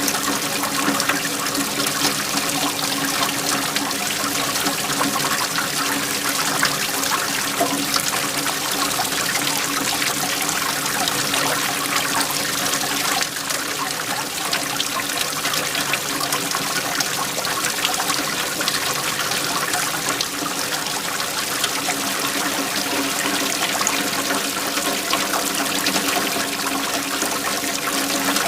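Waterfall: water falling and splashing steadily, an even rush without pause.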